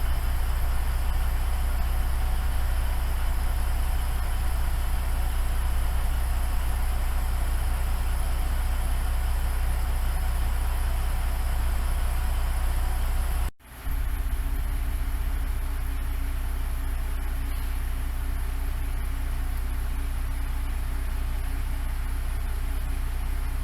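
Diesel railcar engine running steadily with a deep hum, broken by a brief cut about halfway through, after which it carries on with a slightly different tone.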